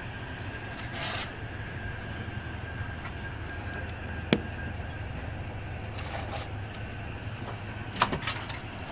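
Steady rumble of a moving passenger train heard from inside the carriage, with a faint constant high whine. Short rustling hisses come about a second in and about six seconds in, a sharp click about four seconds in, and a few clicks near the end.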